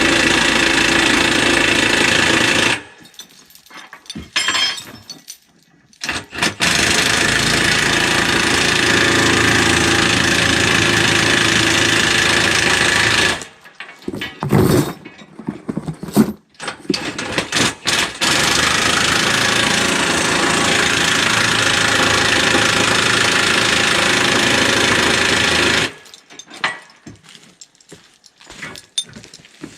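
Cordless 1-inch impact wrench hammering on wheel lug nuts in three long runs, each stopping abruptly when the trigger is let go, with quieter clinks and handling noise in between.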